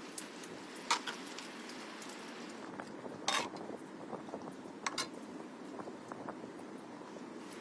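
Dishes and utensils clinking a handful of times, the loudest clink about three seconds in, over a steady low background hiss.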